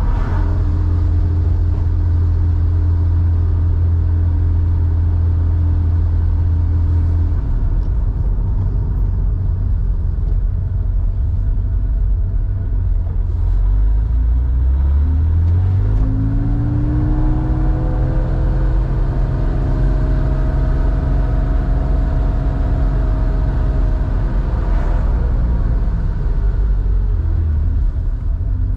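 Porsche 911 3.4-litre air-cooled flat-six running through a SCART two-in-one-out muffler. The exhaust note holds steady, drops off about seven seconds in, then rises as the car accelerates about halfway through before settling at a steady pitch again.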